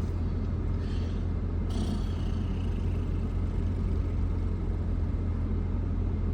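Car cabin noise: a steady low engine and road rumble from inside the car, with a brief hiss that rises just under two seconds in and fades away.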